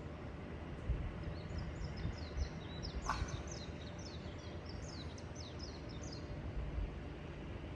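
A small songbird singing a rapid series of short, falling chirps for about five seconds, over a low outdoor rumble, with one sharp click about three seconds in.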